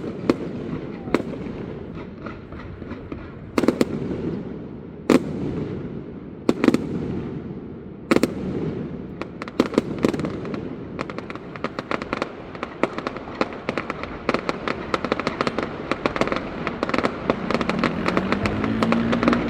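Aerial fireworks bursting: single loud bangs every second or two, each trailing off, then from about halfway a dense, rapid crackling of many small bursts that builds toward the end.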